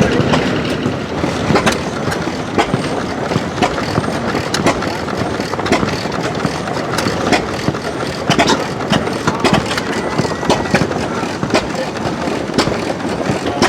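Running machinery clattering steadily, with many irregular sharp knocks and clicks over a continuous mechanical din.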